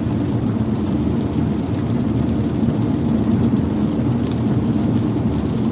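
Steady road noise inside a car driving on a wet freeway, mostly the low rumble of tyres on wet pavement.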